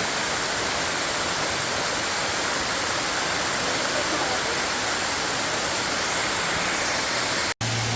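Waterfall pouring: a steady, even rush of falling water that breaks off for an instant near the end.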